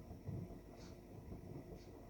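Samsung 9 kg washing machine in its wash cycle, its drum turning with wet blankets. There is a faint swish about once a second over a low rumble.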